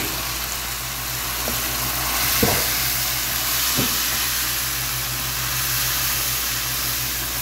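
Chopped onion, ginger-garlic and spices sizzling in hot oil in a wok, stirred with a wooden spatula that knocks and scrapes the pan now and then. The spices have just gone in and are being lightly fried.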